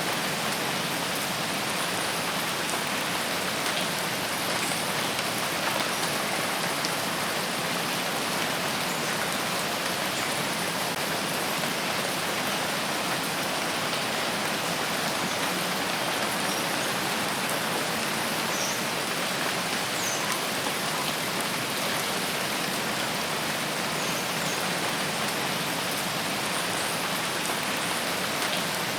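Steady rain falling on a rain forest, an even hiss of many drops on foliage without let-up.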